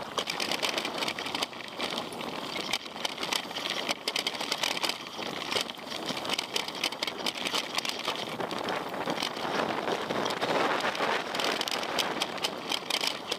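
Mountain bike rolling downhill over a rough trail: steady tyre noise on gravel and rock, with a dense rattle of small knocks and clatters from the bike.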